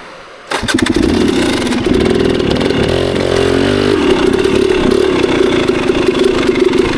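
KTM 300 two-stroke dirt bike engine starting up about half a second in, blipped once around the middle, then running steadily at idle.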